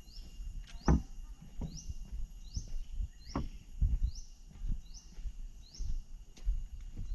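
Insects calling: a short rising chirp repeats about every 0.8 s over a steady high buzz. Irregular low thumps of footsteps and camera handling run through it, the loudest about a second in and about four seconds in.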